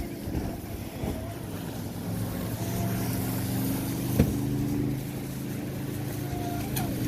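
Volantex Vector Pro Angry Shark RC boat's brushless motor running on the water, a steady drone. There is a sharp knock about four seconds in.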